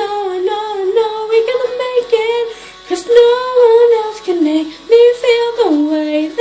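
A female voice singing a pop melody, sliding between notes and dropping to a held low note near the end.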